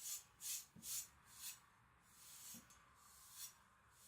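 Knife blade stroked lightly back and forth on trouser fabric, stropping the freshly sharpened edge: a series of soft swishes about two a second, fainter after the first two seconds.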